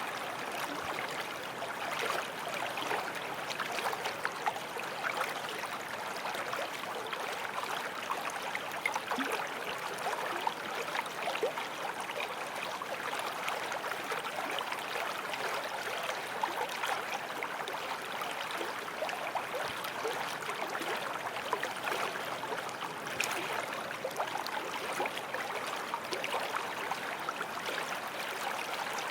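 Forest stream running steadily over stones, a continuous rush of water flecked with small splashes and gurgles.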